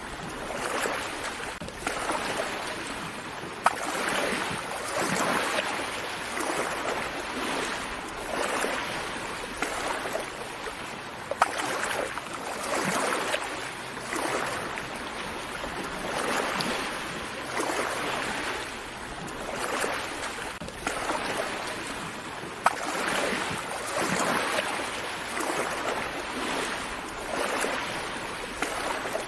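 Small sea waves lapping and washing in, a swell of hiss every second or two, with a few sharp clicks a few seconds apart.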